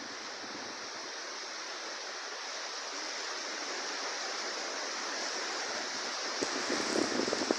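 Heavy rain falling in a strong wind: a steady hiss that grows slightly louder. Near the end, gusts buffet the microphone with a rough, uneven rumble.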